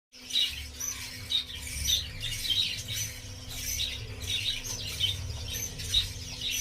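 Cockatiels calling in short, repeated squawks and chirps, several a second, over a steady low hum.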